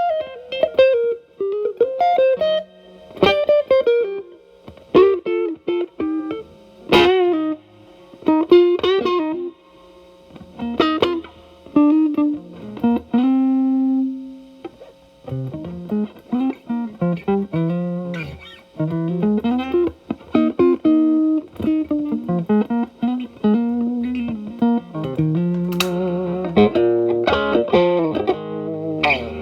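Telecaster electric guitar through an E.W.S. Brute Drive distortion pedal at high gain into a Marshall Valvestate amp, playing single-note lead lines with frequent string bends and one held note about halfway through.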